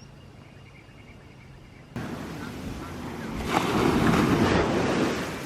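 Faint steady hum for about two seconds, then a sudden change to loud rushing ocean surf that swells about a second later, with some wind on the microphone.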